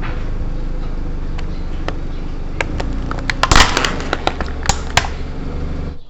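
Cricket disposable lighters cracking and popping as a car tyre rolls over and crushes them, over the car's low engine rumble: a cluster of sharp cracks, loudest about three and a half seconds in. The sound cuts off just before the end.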